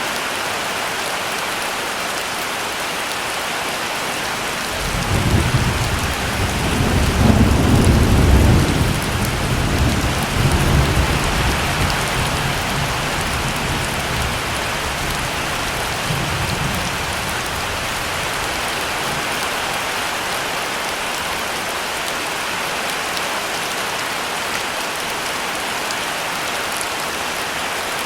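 Heavy rain falling steadily, with a roll of thunder that breaks in about five seconds in, is loudest a few seconds later and rumbles away by about seventeen seconds.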